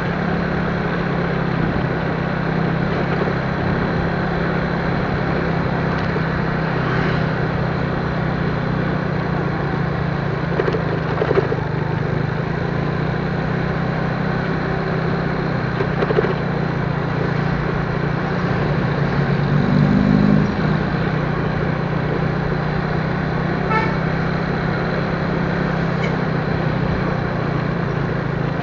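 Steady engine and road noise of a vehicle on the move, with a low hum. A vehicle horn sounds briefly about twenty seconds in.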